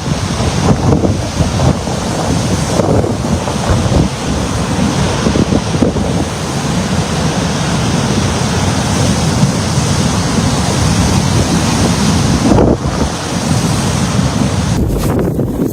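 Strong wind blowing and buffeting the microphone, a loud steady rush that swells and eases in gusts, as in blizzard conditions.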